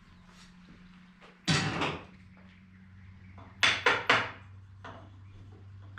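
Sharp wooden knocks and clatters from pieces and tools being handled: one about a second and a half in, then three quick knocks a little before the four-second mark and a lighter one just after.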